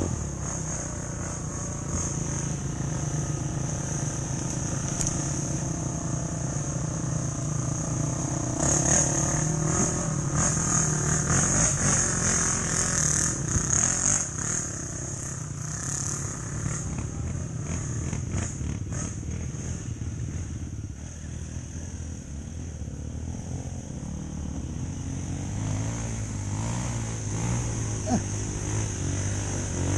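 Enduro dirt bike engine running with the throttle working, louder for a few seconds about a third of the way in, with a steady high-pitched drone above it.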